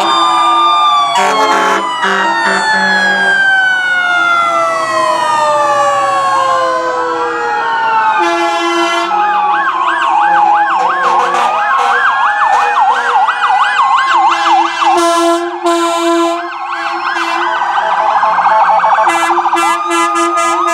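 Several fire-truck sirens sounding together: long wails falling slowly in pitch, a fast warbling yelp in the middle, and repeated steady air-horn blasts.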